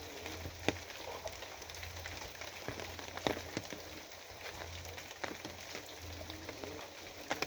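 Steady rain falling, with a continuous hiss and irregular sharp ticks of individual drops striking a hard surface.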